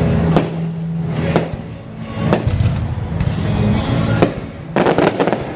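Fireworks going off, with sharp bangs about once a second and a quick run of cracks near the end, over a steady low hum.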